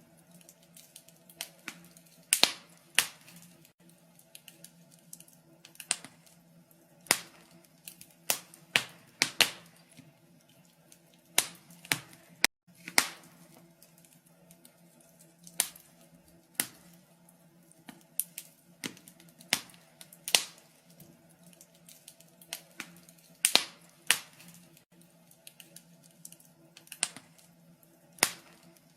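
Wood fire crackling: irregular sharp pops and snaps of burning logs, a few to several a second and some louder than others, over a faint steady low hum.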